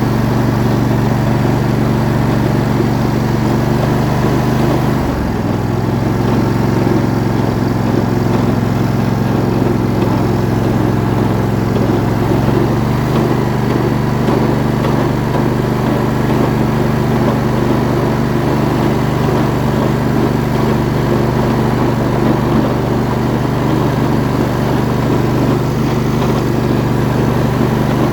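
Riding lawn tractor's small engine running steadily as the tractor is driven, its pitch shifting slightly about five seconds in and again around thirteen seconds.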